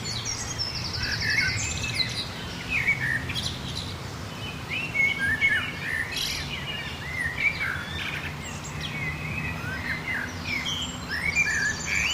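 Several birds singing and chirping at once, overlapping short calls and warbles, with a fast repeated trill about a second in and again near the end. A steady low rumble runs underneath.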